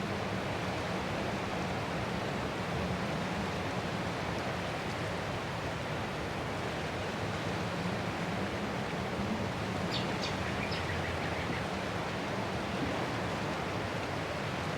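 Ocean surf washing on a shore as a steady, even rush of noise. A few faint high chirps come briefly about two-thirds of the way through.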